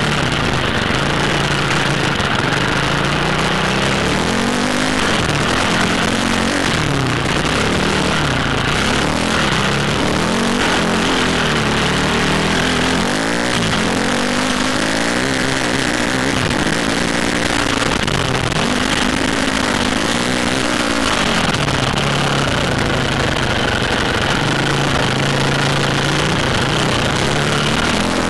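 Dirt bike engine running hard, its pitch rising and falling over and over as the rider works the throttle and shifts, over a steady rushing noise.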